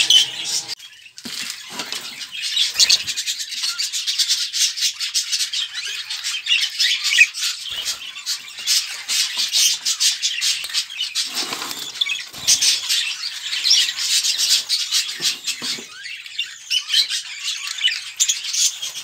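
Budgerigars chattering: a dense, continuous stream of quick chirps, warbles and squawks.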